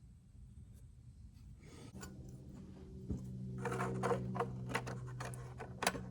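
Small metal carburettor parts and hand tools clicking and rattling as they are handled during reassembly, with a rapid run of sharp clicks in the second half. A steady low hum starts about two seconds in.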